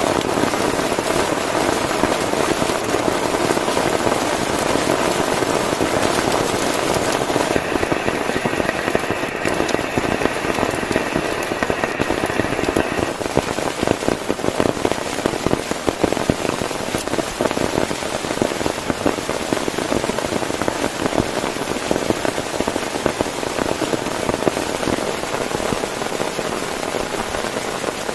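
Heavy rain falling on a tent, a dense, steady rush of countless sharp drop hits.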